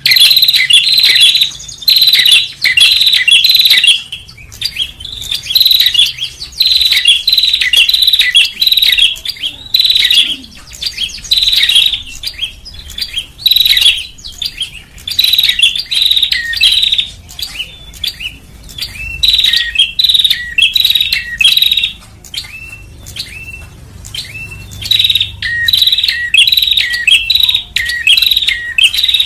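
Prenjak (prinia) calls played as a bird lure: loud, rapid runs of high chirping notes in repeated bouts with short pauses between them. About two-thirds of the way in, shorter downward-sliding notes join the chirping.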